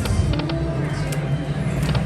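Slot machine game sounds with short electronic ticks, over the steady low din of a casino floor.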